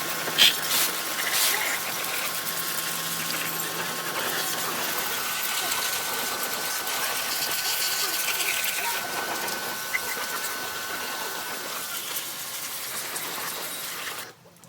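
A motorised machine running steadily, with a faint steady whine, that cuts off abruptly near the end.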